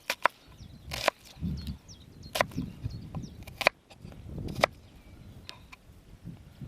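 Knife chopping on a cutting board: a handful of sharp, irregularly spaced knocks as ingredients are cut, with softer handling rustles between them.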